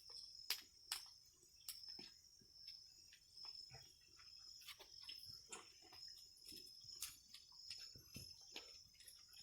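A faint steady high insect trill, with irregular light crackles and clicks throughout, as of a brush pile starting to burn inside.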